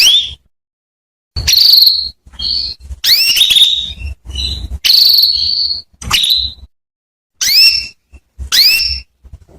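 Female domestic canary calling: a string of short, sharp chirps that rise in pitch, about nine calls with brief pauses between them. These are the female's calls to a male canary.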